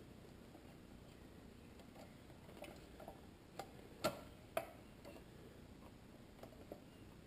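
Scattered light clicks and taps of hard plastic parts being handled, a projector shroud being tried on and worked, with two louder knocks a little past halfway.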